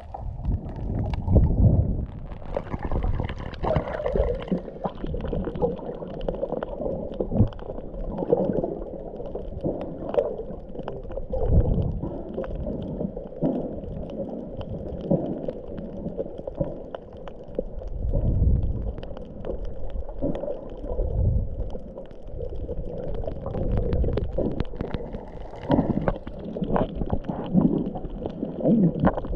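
Muffled water sounds heard through a camera held underwater: gurgling and sloshing, with a low rumble that swells and fades every few seconds and scattered small clicks.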